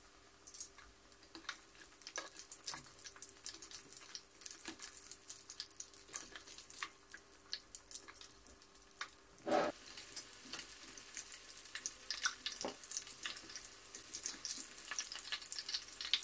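Breaded chicken nuggets frying in hot oil, a dense crackle and popping that thickens towards the end. A single louder knock about nine and a half seconds in.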